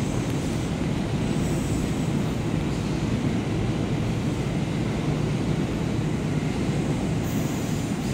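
Kintetsu electric train at a station platform: a steady low rumble that does not rise or fall.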